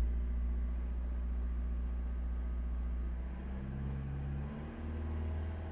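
Opel Astra K 1.6 CDTi four-cylinder turbodiesel engine running, its tone shifting about three and a half seconds in and again shortly before the end. It has a strange noise that the owner hears between 1200 and 2500 rpm and traces to the timing chain, suspecting low oil pressure at the chain.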